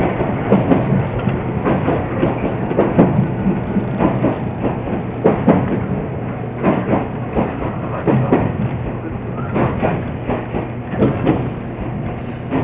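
Iyo Railway electric train running along the track, heard from the driver's cab: wheels clacking irregularly over rail joints above a steady low rumble.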